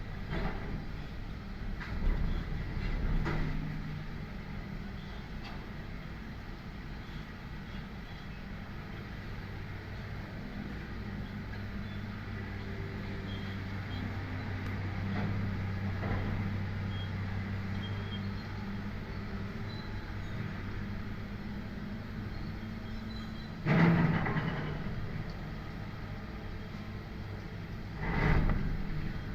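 Demolition machinery's diesel engine running steadily, with several heavy crashes of breaking or falling debris: two early on and two loud ones in the last six seconds.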